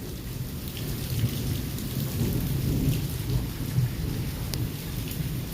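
Thunder rumbling low and continuously, swelling through the middle, over heavy pouring rain with scattered drops ticking close by.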